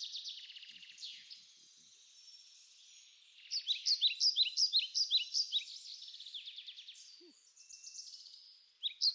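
Small songbirds singing: a fast trill at the start, then a run of loud, repeated, quickly rising chirping notes from about three and a half seconds in, and another trill near the end.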